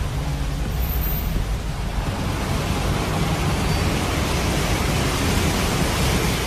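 Steady rushing noise of heavy rain and floodwater on the road, with a low vehicle rumble underneath.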